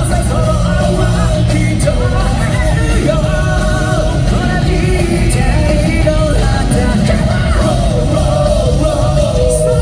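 Live J-rock band with a lead singer over a full rock backing, loud and continuous, recorded from the crowd in a large hall.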